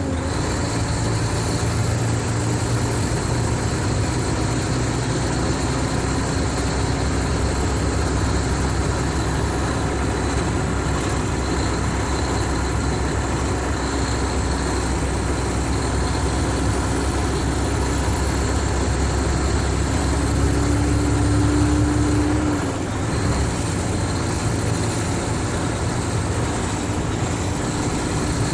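Mercedes-Benz O500RSD coach's diesel engine running with a steady drone and a faint whine. About three-quarters of the way through, the whine rises slightly and then drops away as the engine note falls.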